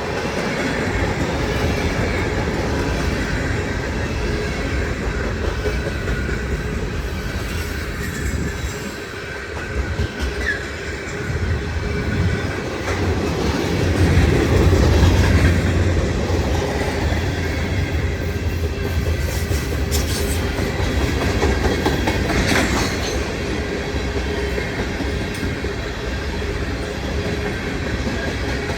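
A long freight train's cars rolling past close by: a steady rumble of steel wheels on rail with clickety-clack over the joints and faint, occasional wheel squeal. The rumble swells to its loudest about halfway through.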